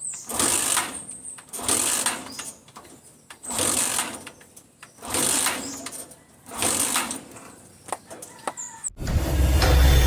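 Honda TMX 125's engine being kicked over five times, each a short rattling burst of about a second, without catching: a no-start typical of weak electrics. Music comes in near the end.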